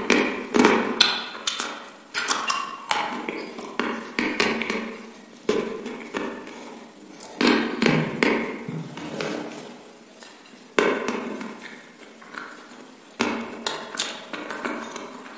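Close-miked mouth sounds of eating chicken wings: chewing and lip smacking, with sharp clicks and smacks at irregular intervals.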